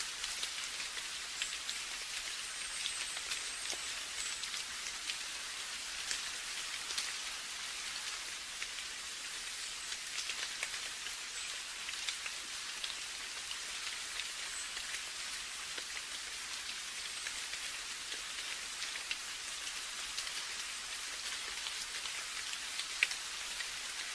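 Steady rain falling, an even hiss with many small drop ticks scattered through it and one sharper drop near the end.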